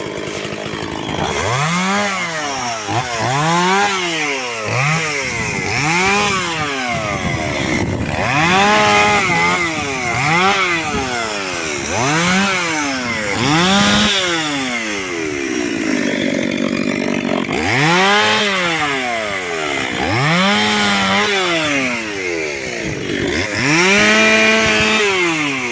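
Chainsaw engine revving up and dropping back over and over, about once every two seconds, as it cuts through wood, bucking a felled tree into short firewood lengths.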